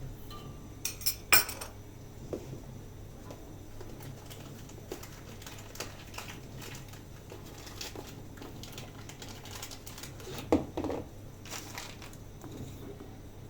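Scattered clinks and knocks of small hard objects being handled, with a loud cluster of clicks about a second in and another around ten to eleven seconds in, over a faint steady low hum.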